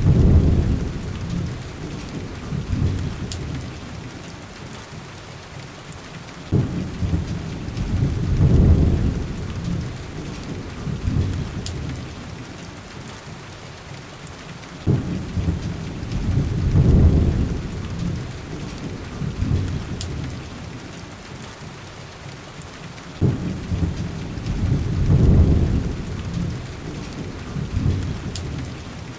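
Heavy rain hissing steadily, with low rolls of thunder that start sharply about every eight seconds, swell and fade away, four times over. Faint occasional ticks sit on top.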